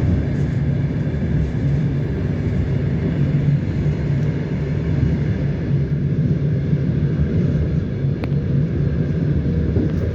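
Passenger train running with a loud, steady low rumble, and a single faint click about eight seconds in.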